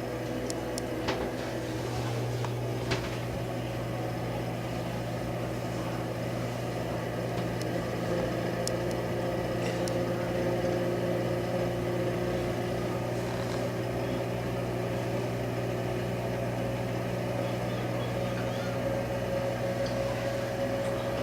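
A vintage Leigh bathroom exhaust fan, made in the 1950s or 60s, running steadily with a low motor hum and a whirring tone that edges slightly higher about eight seconds in. The motor is up to speed after a weak start.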